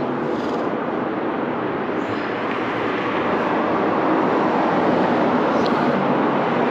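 Steady rushing vehicle noise, growing a little louder from about halfway through.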